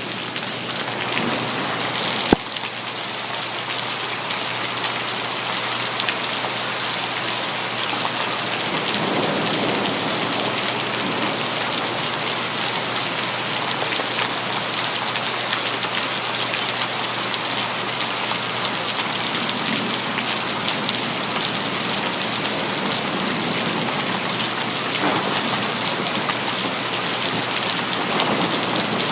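Steady heavy rainfall with thunder rumbling low a few times. A single sharp click sounds about two seconds in.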